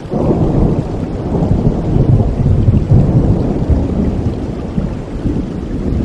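A clap of thunder at the start rolls into a long, low rumble over steady rain.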